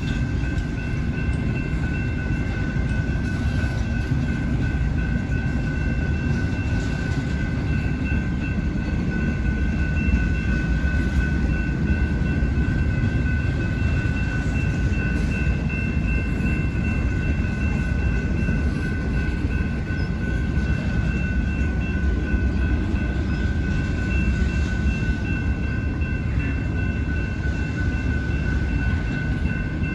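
BNSF intermodal freight train's cars rolling past with a steady rumble, and a steady high-pitched ringing tone running under it.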